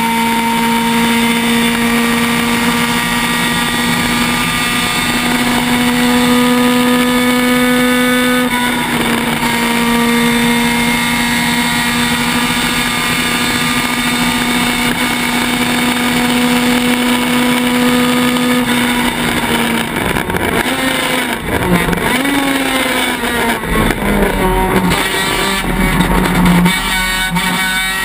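Honda Civic race car's four-cylinder engine heard from inside the car, running at a high, steady pitch with a brief break about eight seconds in. About two-thirds of the way through, the pitch drops and the note rises and falls unevenly as the car brakes and changes down, then it climbs again near the end.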